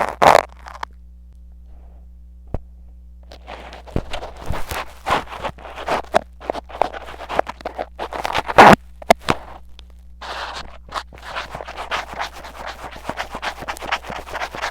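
Metal tweezers scratching and scraping right against a mini ear-shaped microphone, in a rapid run of close, crackly strokes. A short burst comes at the start, then a near-quiet stretch of a couple of seconds before the scratching resumes. After a brief pause about two-thirds through, a metal ear pick takes over, working sticky fake earwax into the ear with the same close scraping.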